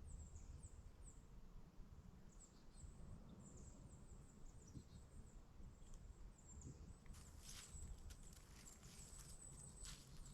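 Near silence of woodland, with faint high-pitched chirps repeating several times a second. From about seven seconds in come faint crackling rustles.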